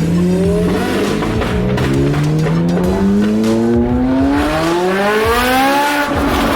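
Sports car engine accelerating, its pitch climbing steadily through one long pull, then dropping sharply near the end as it shifts up.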